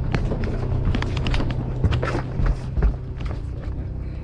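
Steady low hum of the party boat's engine, with a scatter of knocks and clicks on deck through the first three seconds and two heavier thumps near the end of them.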